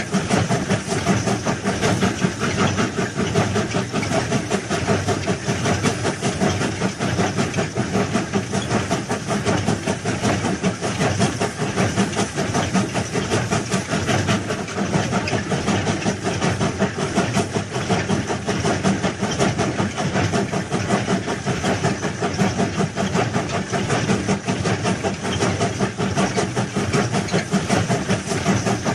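Heavy machinery engine running steadily, with a hiss over it and a fast, even flutter.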